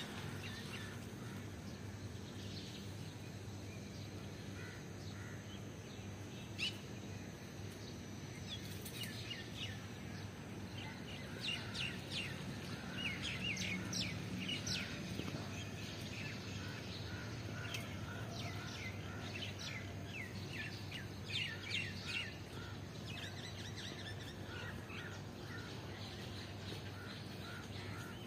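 Small birds chirping in quick runs of short, high, falling chirps, busiest around the middle and again later on, over a steady low background hum.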